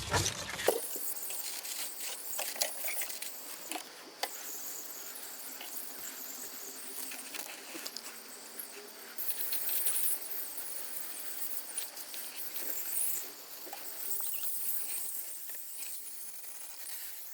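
Liquid spraying onto the back of an AC evaporator coil: a steady hiss with light pattering of droplets on the fins, rising and falling as the spray moves.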